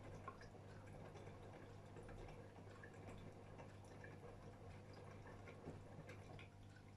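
AEG Öko Lavamat 76910 washing machine partway through a 40 °C wash: a faint steady hum with small drips and ticks of water in the drum, the sound easing slightly near the end.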